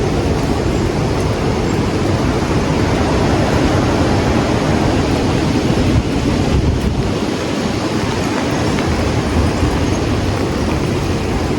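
Strong storm wind blowing steadily, buffeting the microphone with a low rumble.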